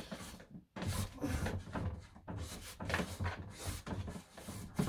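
Irregular knocks, bumps and rubbing from a wooden cupboard door in a camper van interior being handled and worked at to get it off.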